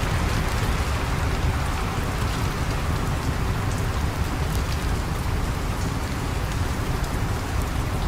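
Steady rain falling, an even hiss with a low rumble underneath and faint tiny ticks of drops.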